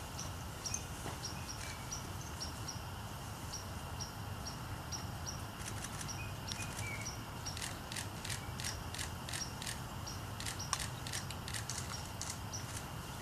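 Camera shutters clicking in quick runs of about three frames a second through the second half, over a steady low hum. Faint short high chirps sound in the first half.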